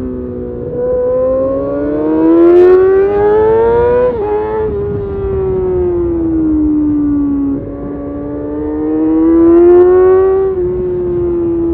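2012 Kawasaki Ninja ZX6R inline-four at high revs through an Arrow titanium race exhaust, its pitch climbing and then dropping sharply at a gear change about four seconds in. The pitch then sags for a few seconds, climbs again, and drops with another shift near the end.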